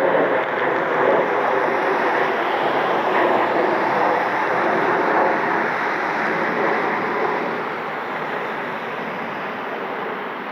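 Jet engines of a departing airliner at takeoff power: a loud, steady rushing noise that slowly fades over the last few seconds as the jet draws away.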